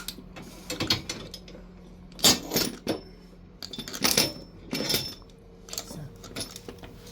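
Irregular sharp metallic clinks and clanks, about six in a few seconds, from metal tools or parts being handled, over a low steady hum.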